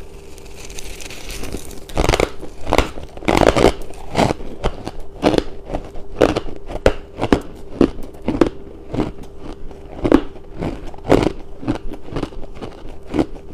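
A person biting and chewing crunchy ice: a run of sharp, irregular crunches, about one every half second to a second.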